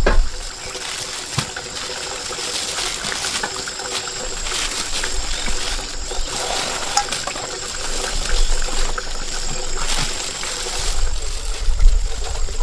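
Shallow stream water trickling and splashing, with many small scattered clicks and knocks and a thin steady high tone in the background.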